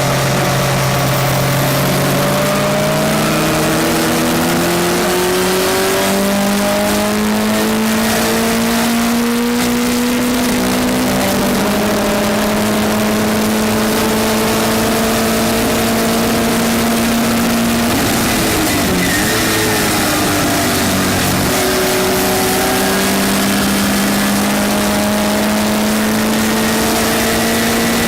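Westfield race car engine heard from on board at full throttle, revs climbing slowly through a long pull. Its note steps down once about 11 seconds in at a gear change, wavers for a few seconds near two-thirds of the way through, then climbs again, over steady wind and road noise.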